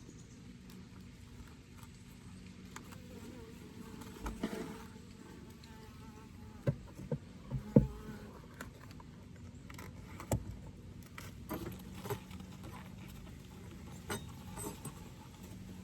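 Honeybees buzzing around an opened hive, a steady hum, with scattered knocks and clicks as the wooden hive frames are handled.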